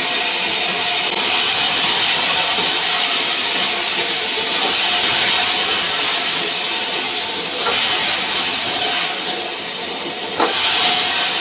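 Sawmill saw ripping through a pine log, a steady hissing machine noise with a sharp knock near the end.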